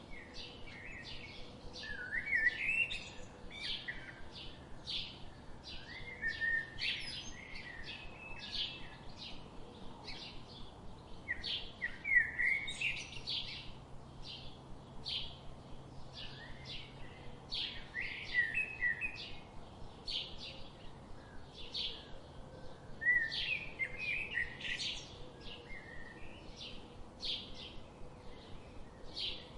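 Birds chirping and singing: a continual run of short high chirps, with a louder song phrase breaking in every five seconds or so.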